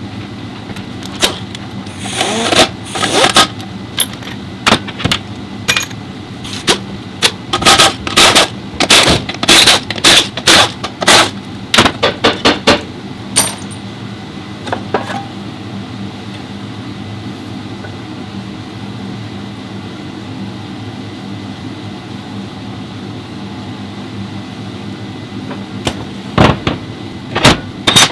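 Sharp metallic clinks and knocks of hand tools and metal parts being handled, in quick bursts during the first half and again near the end, over a steady low hum.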